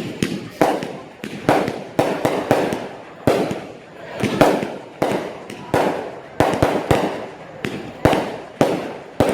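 Fireworks bursting in quick succession, about two sharp bangs a second, each trailing off in a short rumbling echo.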